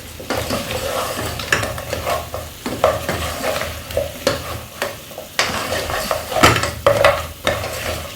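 A utensil stirring fried chicken wings through a honey, soy and garlic sauce in a hot pan, with irregular scrapes and knocks against the pan over a frying sizzle.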